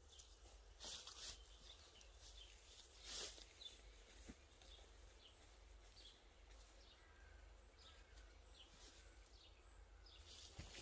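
Near silence: quiet woodland ambience with faint, short bird chirps repeating about once a second, and two brief soft swishes about one and three seconds in.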